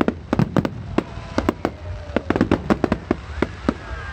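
Fireworks display: a rapid, irregular string of sharp bangs from bursting shells, with a few descending whistles near the end.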